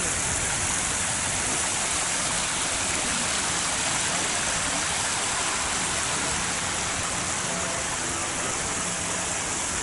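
Geyser erupting: a steady, unbroken rush of spraying water and venting steam.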